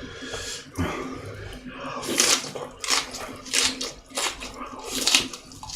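Wet chewing and lip-smacking of a person eating, close to the microphone. A short moist smack comes about once a second.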